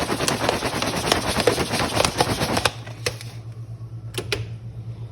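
Jiffy Pop stovetop popcorn popping in its foil pan, a dense rapid crackle of pops that thins out about three seconds in to a few last scattered pops: the batch is nearly done.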